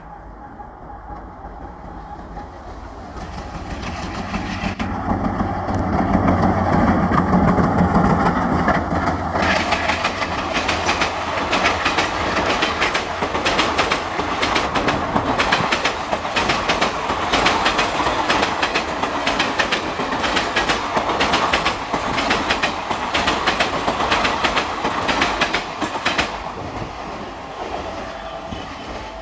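A train passing at speed on an Indian Railways line: it grows louder over the first several seconds, then rapid wheel clatter over the rail joints runs on as the coaches go by, easing off near the end.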